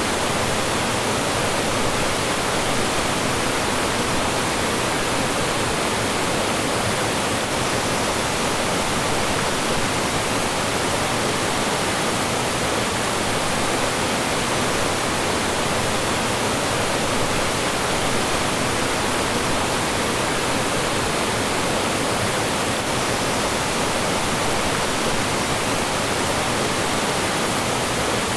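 Mountain stream rushing and splashing over rocks in a steady, loud wash of water noise with no letup.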